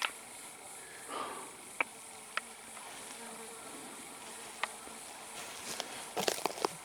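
Insects buzzing outdoors, with a steady high chirring throughout. Scattered sharp ticks and crackles punctuate it, bunched together near the end.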